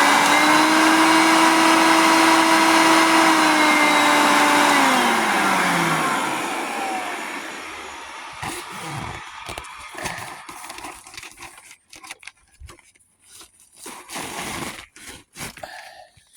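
Hoover Concept 1 upright vacuum's motor running with a steady whine, its brush roll removed, then switched off about three and a half seconds in, the whine falling in pitch as the motor spins down. Scattered knocks and clatter of handling follow.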